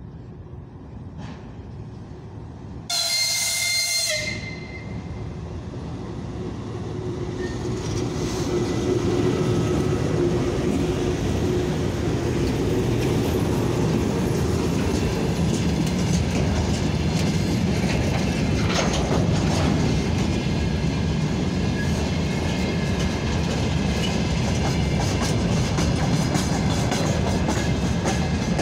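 VL11 electric locomotive sounds one short horn blast about three seconds in, then its freight train rolls past, the rumble of wheels on rail growing louder over a few seconds and then holding steady.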